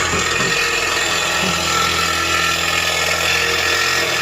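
Cordless angle grinder running steadily under load, cutting through the chiller's steel pipework; the sparks it throws show the pipe is steel, not copper.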